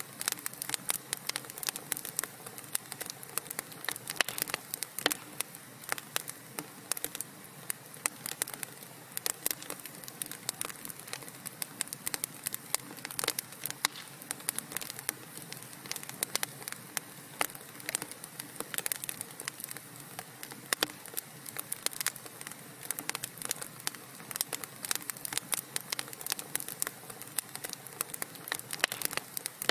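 Wood fire crackling in a fireplace: dense, irregular pops and snaps over a soft steady hiss of burning logs.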